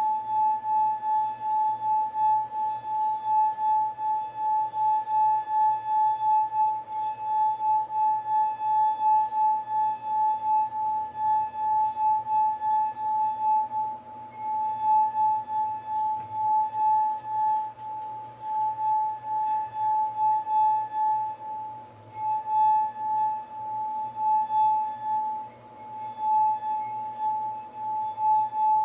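A wine glass singing as its rim is rubbed: one steady ringing tone that throbs in loudness about twice a second, and stops right at the end.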